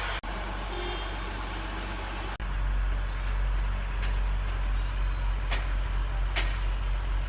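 WAP-4 electric locomotive at a standstill, giving a steady deep hum. It breaks off abruptly twice and comes back louder about two and a half seconds in. A few short, sharp hisses stand out near the end.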